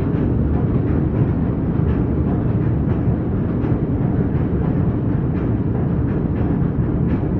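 Train running along the line, a steady low rumble with faint irregular clatter.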